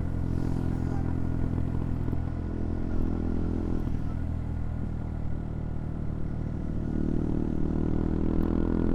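CFMoto Papio XO-1's single-cylinder 125 cc engine running under way. The engine note eases off around four seconds in and builds again as the throttle opens near the end.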